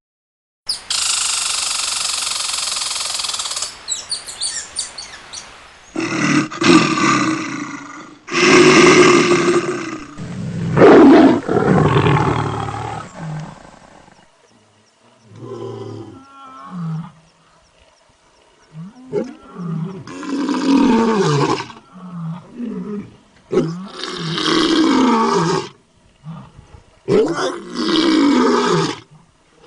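Loud animal roars and calls in a series of short clips that start and stop abruptly, with a hissing noise near the start.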